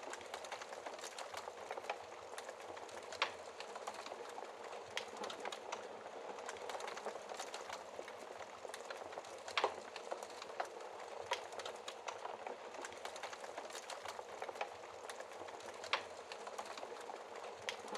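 Wood fire burning in a fireplace: a steady crackling hiss with frequent sharp pops, the loudest about halfway through.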